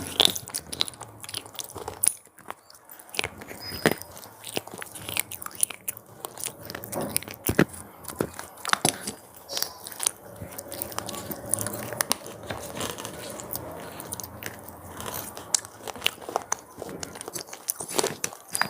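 Close-up crunching and chewing of cheese pizza flavoured crunchy snacks: a dense, irregular run of sharp crackles as the pieces are bitten and chewed.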